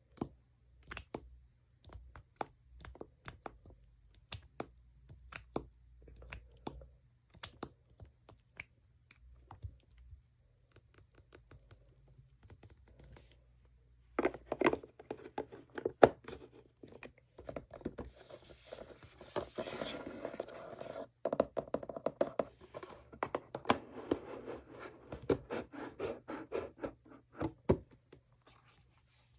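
Tapping and scratching on makeup packaging: scattered light taps for the first half, then denser scratching and rubbing from about halfway.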